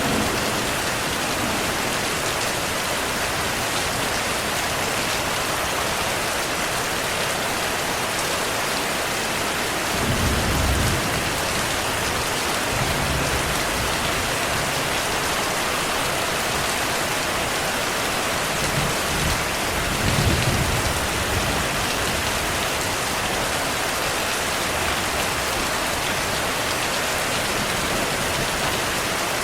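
Heavy rain falling steadily, with low rolls of distant thunder about ten seconds in and again around twenty seconds in.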